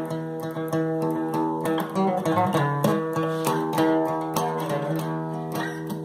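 Guitar playing a tune: single plucked notes picked one after another over a steady low bass note.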